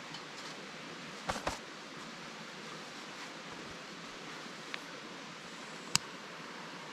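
Wood campfire crackling: a steady hiss with a few sharp pops. There is a quick cluster of pops a little over a second in, and the loudest single pop comes about six seconds in.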